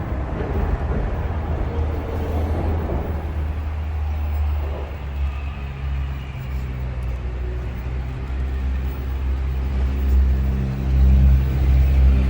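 Axial SCX10 Pro RC crawler's electric motor and geared drivetrain running, a steady whine of several even tones that starts about halfway through and grows louder near the end, over a continuous low rumble.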